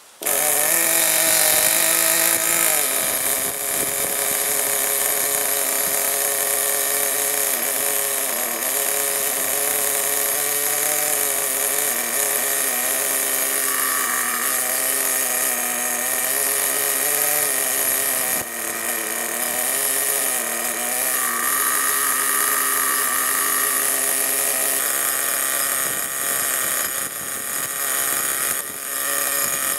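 Ansmann ARNE 21 .21 nitro engine idling during its first run, a steady high buzz whose pitch wavers slightly. It cuts in abruptly at the start.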